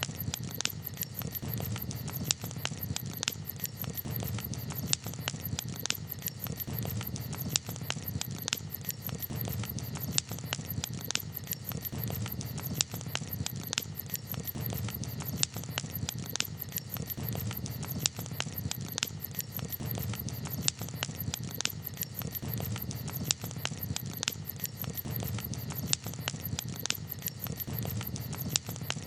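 Campfire of burning wood crackling: frequent small irregular crackles with a sharper pop every second or two, over a steady low rumble.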